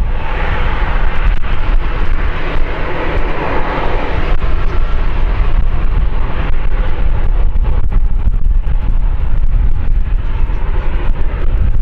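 An aircraft passing, its engine noise starting strongly, peaking a few seconds in and fading away after about five seconds. Heavy wind rumble on the microphone runs underneath.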